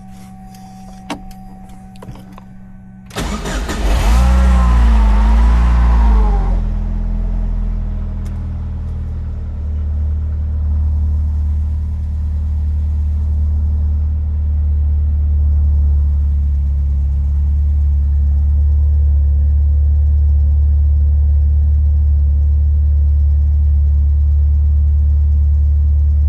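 Nissan 240SX engine starting for the first time in a long while: it catches about three seconds in, revs up and down for a few seconds, then settles into a steady idle.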